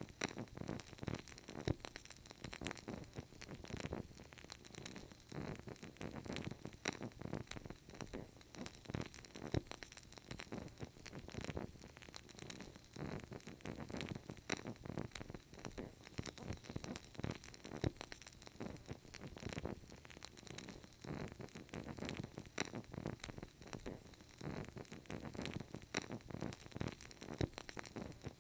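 Burning candle crackling: a dense run of small, irregular crackles and ticks, with a few sharper pops standing out now and then.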